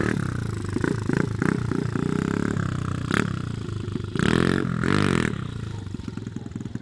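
Pit bike engine running and being revved up and down, with two loud revs about four to five seconds in and a few sharp knocks and clattering along the way.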